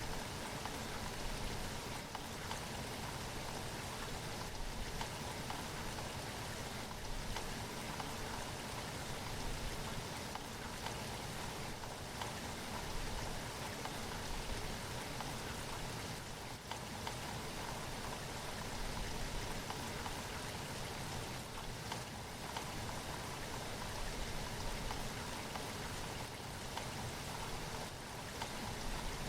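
Steady rainfall, drops pattering on a surface as an even hiss.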